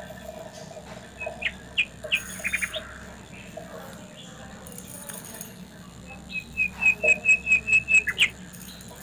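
A bird chirping: a few scattered high chirps about two seconds in, then a quick even run of about eight high chirps near the end.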